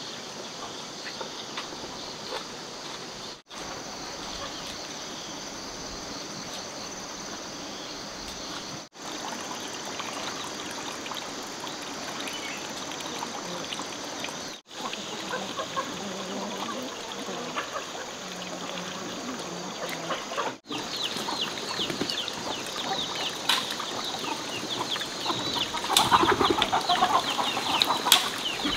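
Chickens clucking, with many short high peeps that thicken in the second half and louder clucks near the end, over a steady high insect drone. The sound drops out briefly four times.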